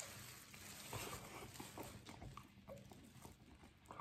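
A person biting into and chewing a buffalo chicken wing: faint, irregular wet mouth clicks and smacks.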